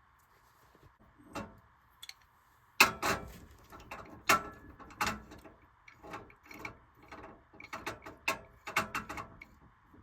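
Irregular clicking, clattering and knocking of hand tools and metal parts being worked by hand, with a run of sharp knocks about three seconds in and another cluster near the end. A faint steady hiss sits underneath.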